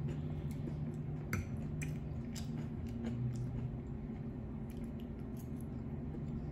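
Close-miked chewing of food, with scattered short mouth clicks and smacks over a steady low hum.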